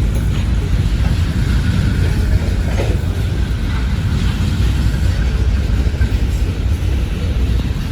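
Freight train rolling past at close range: a steady, heavy rumble of wheels on rail as the cars cross over from one main track to the other.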